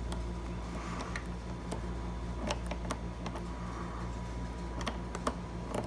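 Scattered light clicks and ticks of a dimple lock cylinder being worked apart by hand, its loose pins and springs coming out, over a steady low hum.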